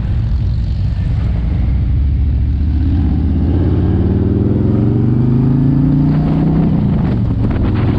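V-twin motorcycle engine under way: a loud, steady rumble whose pitch climbs for a few seconds as it accelerates, drops back about three-quarters of the way through as the throttle eases or it shifts, then holds steady.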